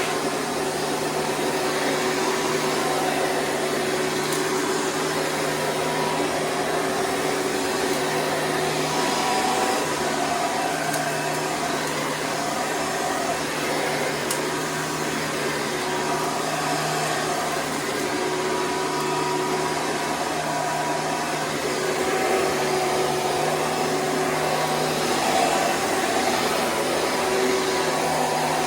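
Hoover Preferred direct-air upright vacuum cleaner running steadily with an even motor hum.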